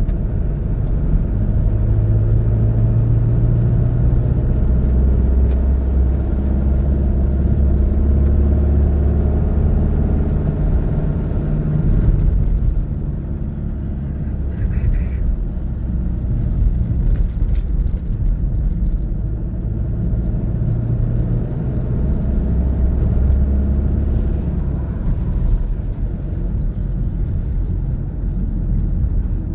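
A car driving, with a steady engine drone and road noise; the engine note shifts in pitch several times as the car changes speed.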